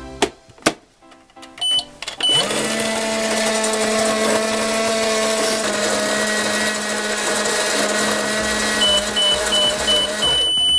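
Toy microwave being started: a couple of clicks and two short beeps, then a steady electronic microwave hum for about eight seconds, followed near the end by a run of about five high beeps that signal it is done.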